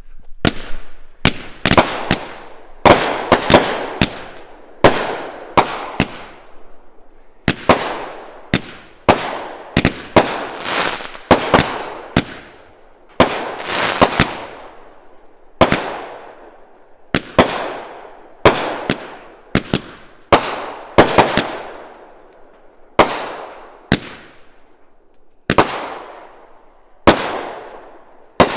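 A consumer firework cake firing a long volley of aerial shots. There is a sharp bang about every second, sometimes two in quick succession, and each break trails off before the next one.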